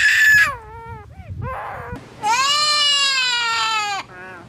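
Parrot mimicking a person crying: a few short sobbing cries, then one long wailing cry about halfway through that slowly falls in pitch.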